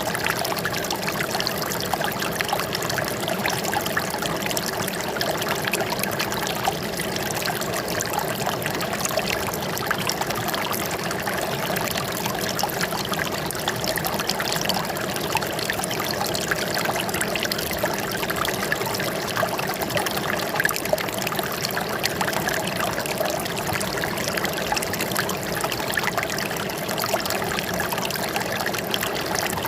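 Water trickling and splashing steadily, with a constant, even flow.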